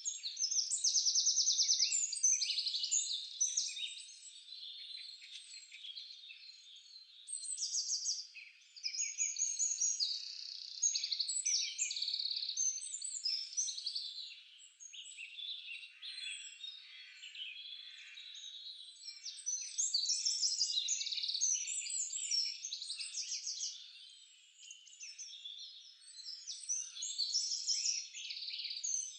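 Several songbirds singing at once: a dense chorus of overlapping high chirps and rapid trills, coming in loud phrases a few seconds long with quieter gaps between them.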